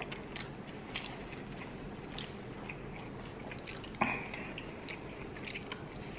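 Close-miked chewing of a fried chicken burger: soft wet mouth sounds and scattered clicks, with one sharper, louder mouth sound about four seconds in.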